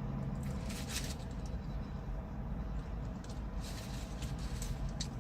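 Eating sounds in a car: brief crackles of chewing and a food wrapper being handled, about half a second in and again near the end, over a steady low hum in the car's cabin.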